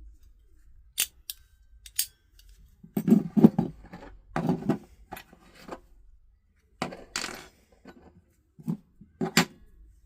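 Metal clicks, knocks and clinks of cabinet door handle hardware being handled and fitted. A few sharp single clicks come first, then uneven clusters of knocks and rattles.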